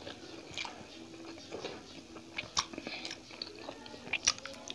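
Close-miked chewing of food, with wet mouth smacks and clicks. A few sharper clicks stand out about two and a half and four seconds in.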